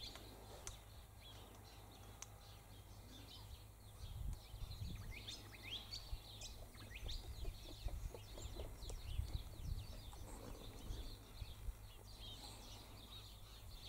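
Birds chirping faintly in the background: many short, quick, high chirps, thickest through the middle, over a low rumble.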